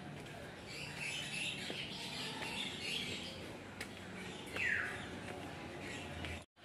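Birds chirping and calling, with one louder call that slides downward in pitch about two-thirds of the way through.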